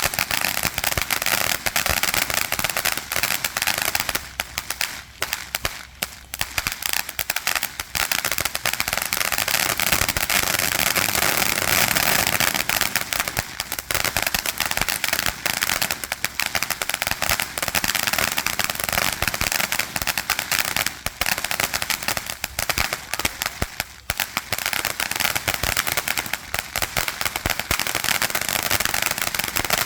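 Consumer ground fountain firework burning, a continuous hiss full of dense crackling pops.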